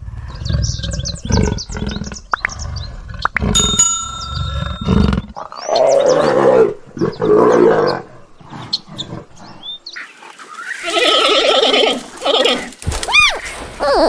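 A run of different animal calls cut one after another, among them a big cat's roar in the middle.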